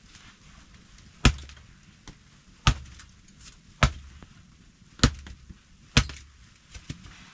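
Axe chopping wood: five hard strikes roughly a second apart, each with a dull thud, and a few lighter knocks between them.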